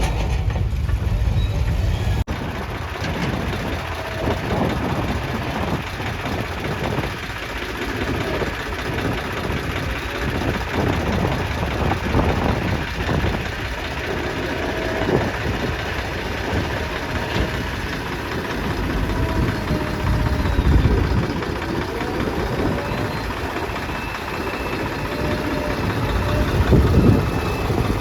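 Diesel engines of earth-moving machinery running steadily, with a dense low rumble that swells a little at times.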